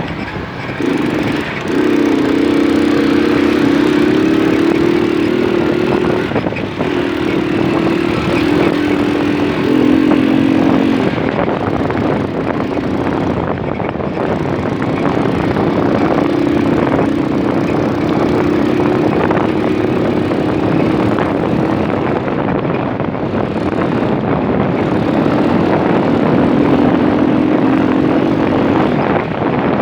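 Moped engine running under way, its pitch shifting up and down with speed over a loud, steady rushing noise.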